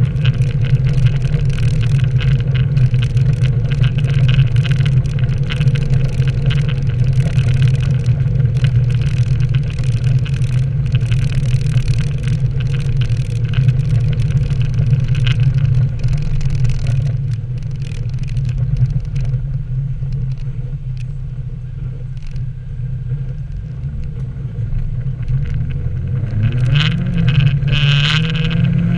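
Nissan 240SX S13 engine and exhaust under way, a steady low drone with a hiss of road noise over it. About seventeen seconds in it eases off and goes quieter, then near the end it revs up with a rising pitch.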